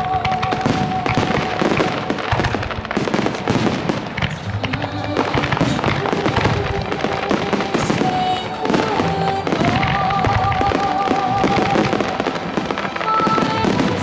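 Fireworks display: aerial shells bursting in a dense barrage, with many bangs and crackles in quick succession.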